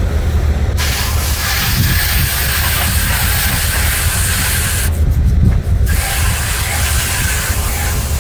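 Garden-hose water spray hitting the coil fins of an outdoor heat pump condenser, washing out dirt and spider webs. It is a steady hiss that stops for under a second about five seconds in and then starts again, over a steady low hum.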